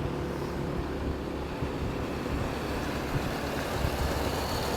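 Steady rush of wind over the microphone from a moving motorcycle, with its engine running underneath and surrounding road traffic.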